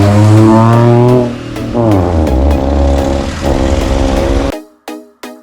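A vehicle engine revving: its pitch climbs for about a second, falls away as if shifting or backing off, then runs high again before cutting off suddenly about four and a half seconds in. Short, evenly spaced music notes follow near the end.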